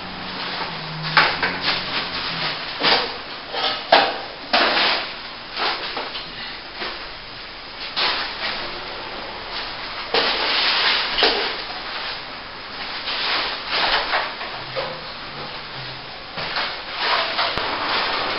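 Steel plastering trowel scraping and spreading wet plaster over a crack in a wall joint, in short irregular strokes with a longer sweep about ten seconds in.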